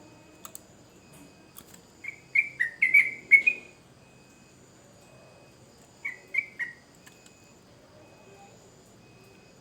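Yellow-vented bulbul (trucukan) singing: a quick bubbling phrase of about six short whistled notes about two seconds in, then a shorter three-note phrase about six seconds in. A faint steady insect trill runs underneath.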